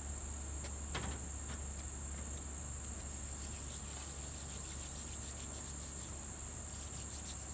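A steady, high-pitched insect chorus, like crickets, with a low steady rumble underneath and a faint click about a second in.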